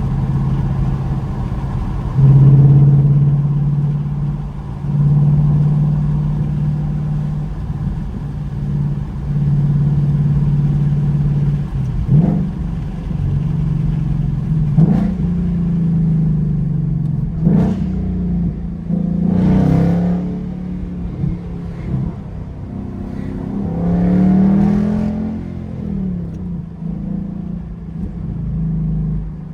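2021 Ford Mustang GT's 5.0-litre V8 engine running while driving. Its note swells loudest about two seconds in and rises again twice later under acceleration, with a few brief sharp sounds in between.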